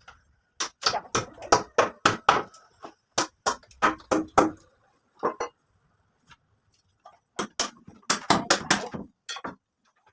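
Repeated sharp knocks of hand-tool blows, about three a second, in two runs separated by a pause of a couple of seconds.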